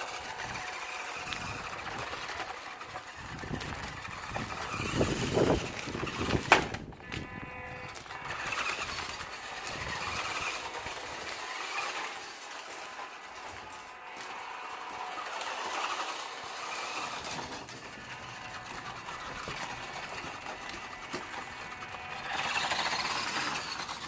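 WPL D12 1/10 RC truck's small electric motor and gears whining, rising and falling as it speeds up and slows. A few heavier knocks come about five seconds in, ending in one sharp crack.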